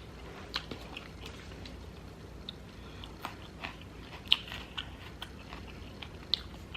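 Close-up chewing and biting of air-fried chicken wings, with scattered wet mouth clicks and smacks and a few sharper clicks.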